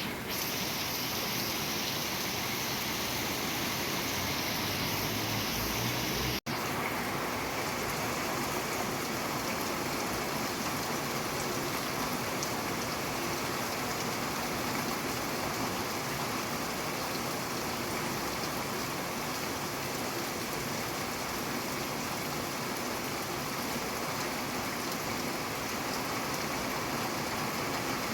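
Steady rain falling, an even hiss. It cuts out for an instant about six seconds in, then carries on slightly duller.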